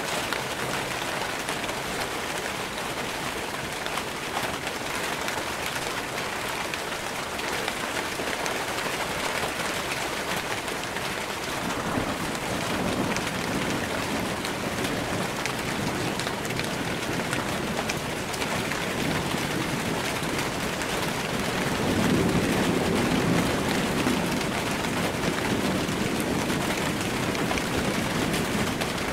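Steady rain falling in a sun shower, an even hiss throughout. A low rumble of distant thunder builds from about twelve seconds in and is loudest a little after twenty seconds.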